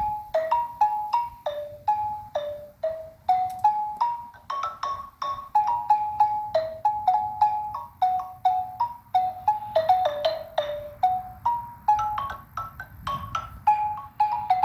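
A xylophone played by hand with mallets: a wandering melody of single struck notes, about three a second, each ringing briefly.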